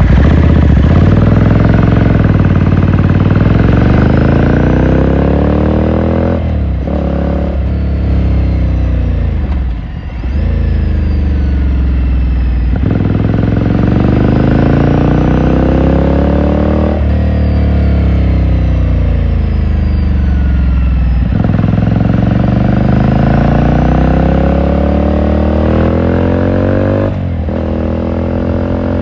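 2018 Ducati Scrambler Sixty2's air-cooled L-twin engine pulling hard on the road, its revs climbing again and again and dropping back every few seconds as it shifts up through the gears. There is a brief slowdown about ten seconds in.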